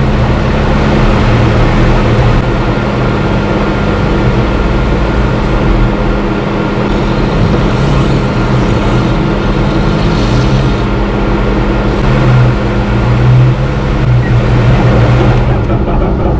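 A vehicle's engine running steadily while driving off-road, its pitch shifting slightly now and then.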